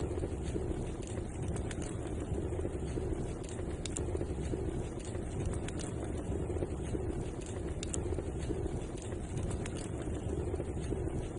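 Fireplace fire crackling: scattered sharp pops at irregular intervals over a steady low roar.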